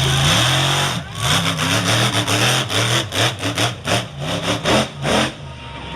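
Monster truck engine revved hard in a quick series of short throttle blips, about a dozen in four seconds, after a second of steady loud running; the revving stops near the end.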